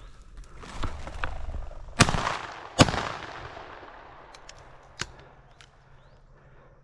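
Two shotgun shots fired about a second apart during a quail hunt, each ringing off and fading, followed a couple of seconds later by a single sharp click.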